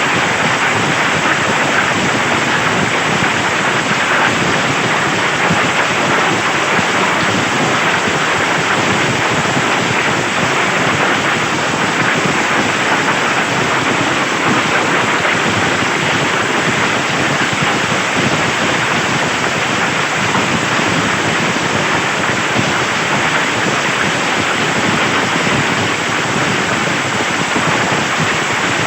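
Heavy rain and hail pelting down in a dense, steady downpour.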